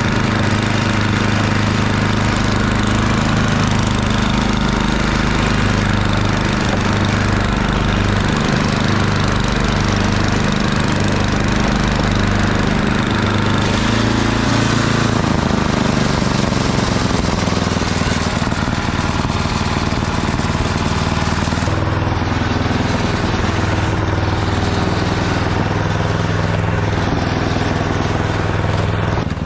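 The 8 hp engine of a Murray Ultra 8/27 snowblower running steadily while the machine clears snow, its note shifting a little around the middle.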